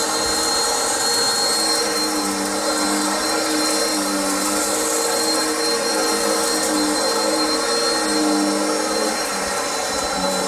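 Bissell CleanView upright vacuum running on carpet: a steady motor hum with a thin high whine over the rush of air.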